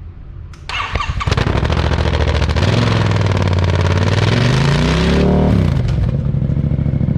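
Yamaha MT-07's parallel-twin engine through an Akrapovič exhaust, revved hard from idle. The revs climb for about three seconds, then drop back quickly to a fast, steady idle near the end.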